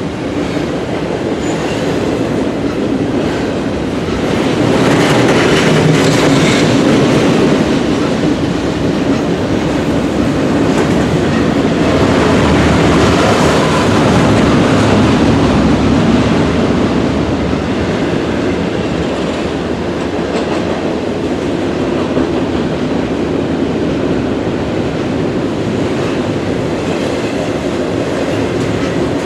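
Loud, steady running of a double-stack intermodal freight train's container well cars rolling past, steel wheels on the rails. It is louder for several seconds about a third of the way in.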